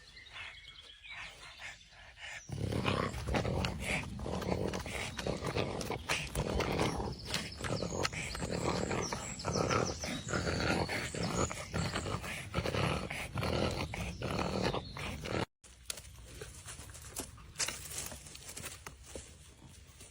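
French bulldog growling during play: a dense, loud stretch of rough sounds that starts about two and a half seconds in and stops abruptly about fifteen seconds in, with quieter sounds before and after.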